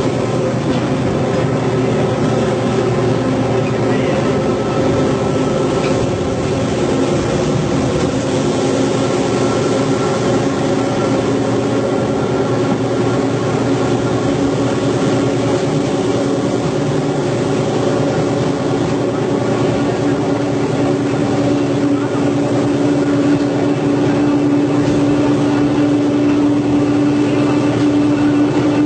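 Diesel commuter train running with a steady engine drone; one tone of the engine rises slowly in pitch over the last third, as the engine speeds up.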